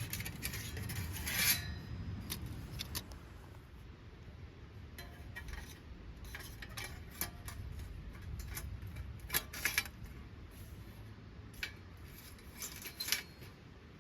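Scattered clicks and light metallic clinks, some in short flurries, from handling kindling and sticks in a small titanium fire stand.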